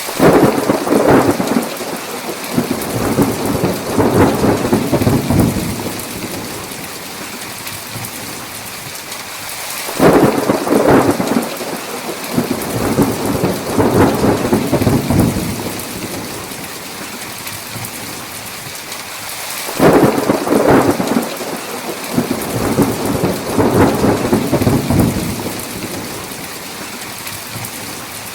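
Steady heavy rain with three rolls of thunder, each starting suddenly and rumbling for about five to six seconds, roughly ten seconds apart.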